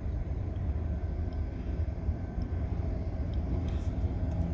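A steady low rumble, with a few faint, short high-pitched sounds here and there.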